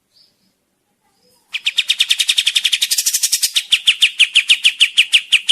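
Kapas tembak song: after a pause with a couple of faint chirps, a long fast trill of repeated high downward-slurred notes, about ten a second, starts about a second and a half in.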